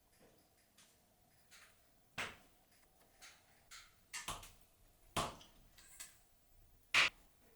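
Hand carving of wood with a blade: a string of short, irregular scraping cuts, a few of them sharper and louder, the loudest near the end.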